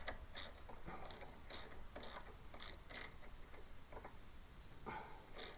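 Ratchet wrench clicking in short runs, about two clicks a second, as the mounting screws of a new ignition coil on a Kohler lawn tractor engine are run down loosely. The clicks pause for a moment in the middle and pick up again near the end.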